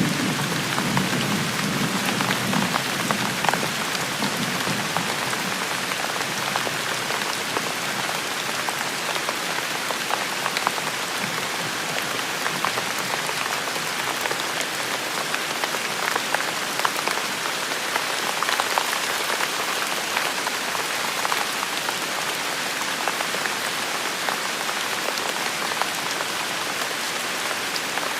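Steady heavy rain, with separate drops striking hard surfaces close by. A low rumble of distant thunder dies away in the first few seconds.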